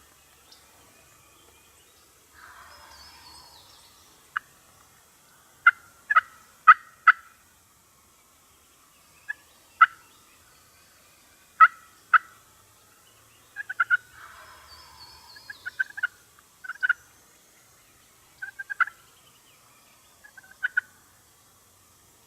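Wild turkeys calling: two gobbles, about two seconds in and again near the middle, with many short, sharp yelping notes between and after them.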